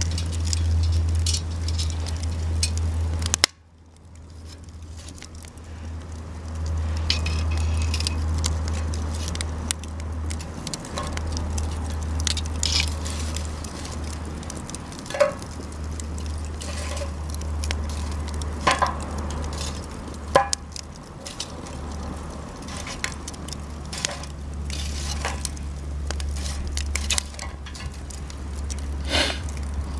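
Campfire of cedar offcuts burning, crackling and popping with irregular sharp snaps, a few of them louder, over a steady low rumble.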